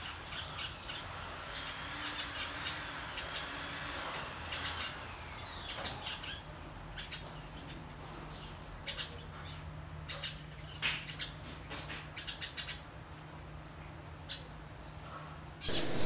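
Birds chirping and calling: whistled notes sliding up and down in pitch over the first few seconds, then scattered short chirps.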